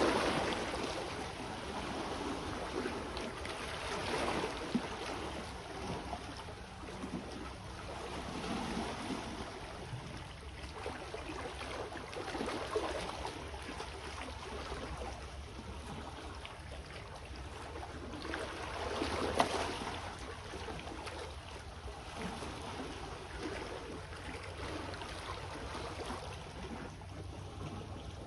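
Small sea waves washing in on the shore, a rush of water every few seconds over a steady low rumble, with one stronger wash about two-thirds of the way through.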